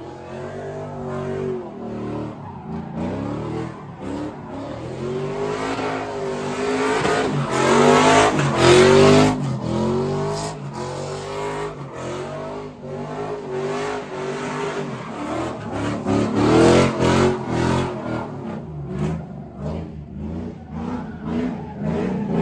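Car engine revving hard, its pitch climbing and falling again and again, with tire screech, as a car spins burnouts and donuts at a street takeover.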